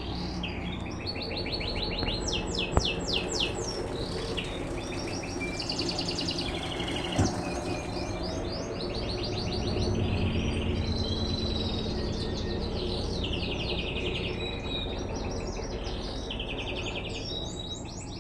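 Small birds chirping in rapid, repeated trills throughout, over the steady low running noise of an Electrolux LTE12 washing machine in its rinse cycle. Two sharp clicks a few seconds apart.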